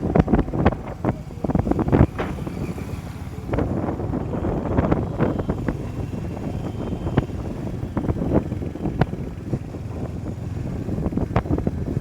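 Motorcycle running along the road, its engine a low steady drone under heavy wind buffeting on the microphone, with irregular gusty thumps throughout.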